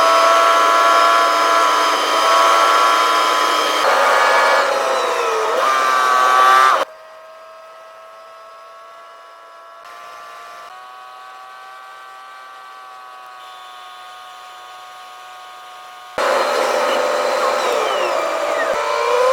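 Strong wind whistling around a truck cab: several high whistling tones held steady, sliding in pitch now and then. It drops abruptly to a quieter whistle about seven seconds in and comes back loud about sixteen seconds in.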